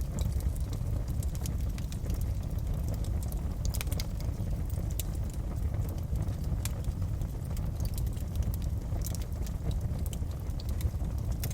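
Wood fire in a fireplace crackling, with irregular sharp pops and snaps over a steady low rumble of the burning fire.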